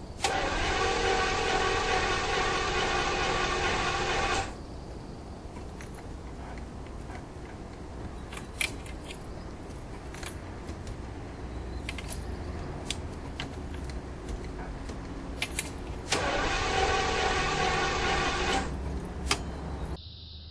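1976 Jaguar XJS V12 cranking on its starter without catching, twice: about four seconds at the start, then again for about two and a half seconds near the end. Keys clicking and rattling in between: the car does not run.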